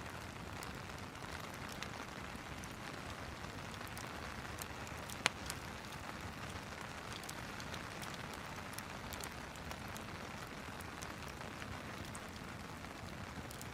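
Steady rain hiss mixed with a crackling fireplace, scattered small pops and ticks. One sharp click stands out about five seconds in.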